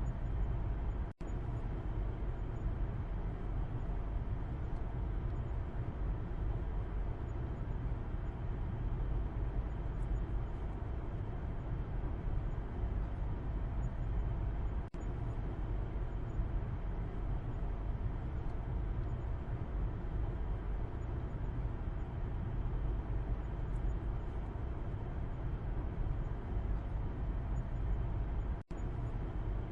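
Steady low road and engine rumble inside a moving car, heard from the back seat. It cuts out for an instant about a second in and again near the end.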